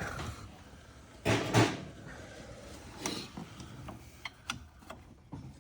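Hand work on parts in a truck's engine bay: a short scraping rustle about a second and a half in, then a few light clicks and knocks of tools or parts being handled.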